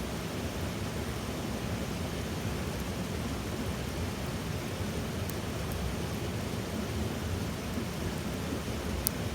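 Small wood fire burning in an ultralight spoke-type fire stand: a steady rushing noise with a few sharp crackles, the loudest near the end.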